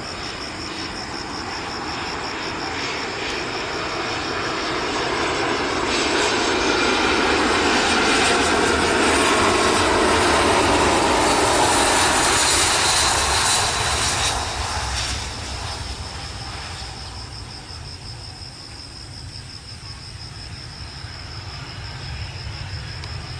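Jet engines of an Airbus A320-200 landing. The noise grows louder as the airliner approaches, is loudest with a strong hiss about ten seconds in, drops off sharply about fifteen seconds in, and then fades away.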